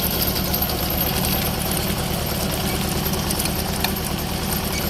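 T-25 tractor's two-cylinder air-cooled diesel engine running steadily, with an even low pulse.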